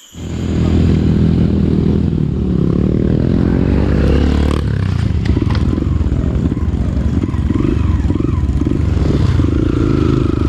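Dirt bike engine running under way, climbing in pitch as it accelerates, then dropping suddenly about four and a half seconds in as it shifts gear and pulling on at a varying pitch, with rattling from the rough trail.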